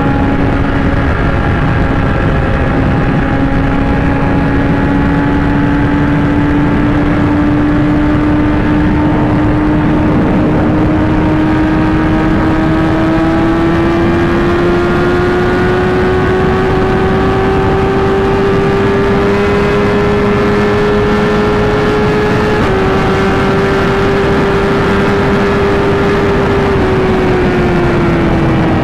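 Sportbike inline-four engine under steady high revs, its pitch climbing slowly for about twenty seconds, stepping briefly about 22 seconds in and dropping off near the end, with wind rush throughout.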